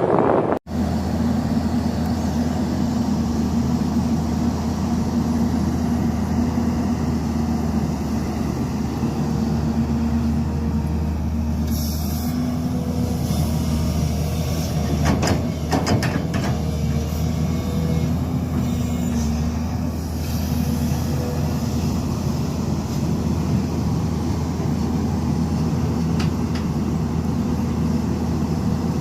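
Heavy diesel construction machine running steadily, with a deep, even engine drone, a few sharp clanks about halfway through, and a brief cut-out just after the start.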